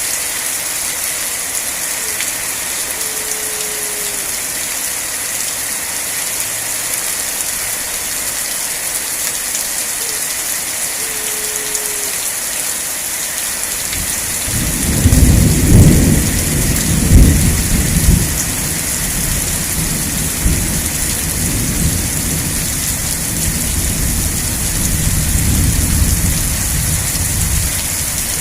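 Steady rain falling, with a long roll of thunder starting about halfway through. The thunder is loudest for a few seconds, then rumbles on more quietly.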